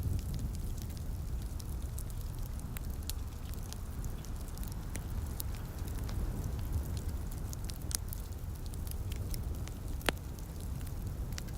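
Wood fire in a fireplace crackling, with scattered small pops and two sharper ones about eight and ten seconds in, over a steady low rumble and soft rain.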